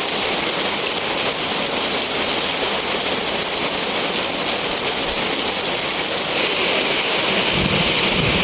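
Heavy rain pouring down in a steady, dense hiss. A low rumble starts to come in near the end.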